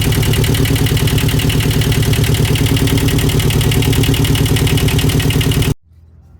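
A small boat engine running steadily with a fast, even beat, then shut off abruptly near the end, leaving a faint low hum.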